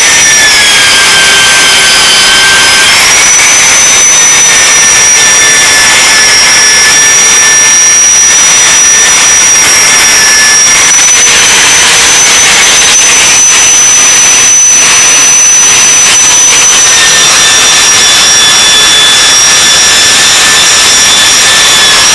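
High-speed power tool spinning a wire brush to clean metal before welding. It runs as a loud, steady whine over a hiss, and its pitch shifts slightly a few times as the load on the brush changes.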